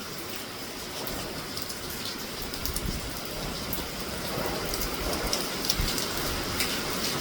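Heavy rain pouring steadily in a storm, with many scattered sharp drop hits.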